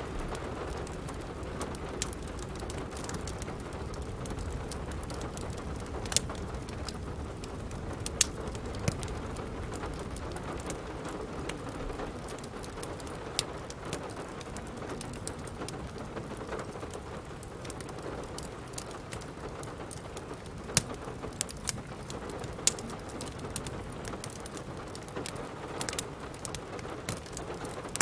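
Steady rain falling, with scattered sharp pops and crackles from a wood fire in a fireplace.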